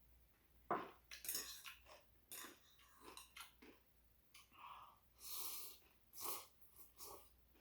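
Close-up mouth sounds of eating rice cake ramen: a string of soft chewing smacks and clicks, with a longer hiss just after five seconds in.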